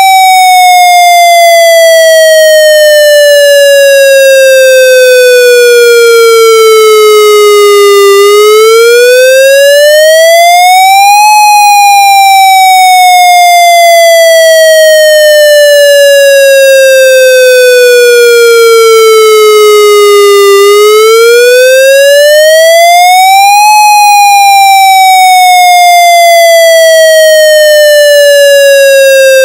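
Federal MCP siren wail signal, a raw electronic tone with a buzzy, harmonic-rich sound. It falls slowly for about nine seconds, then rises more quickly for about three, cycling a little over twice, and stays loud and unbroken throughout.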